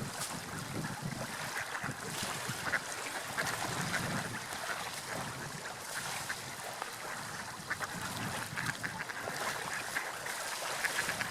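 Seagulls calling repeatedly in short cries over a steady wash of sea waves and wind.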